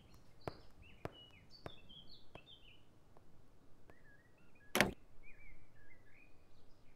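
Faint birds chirping in short high notes. A few evenly spaced light clicks come in the first half, and one sharper knock a little under five seconds in.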